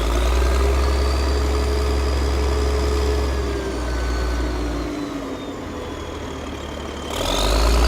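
Motor of a DIY miniature construction vehicle running steadily with an engine-like hum. Its pitch and level sag for a few seconds as it slows, then pick up again near the end.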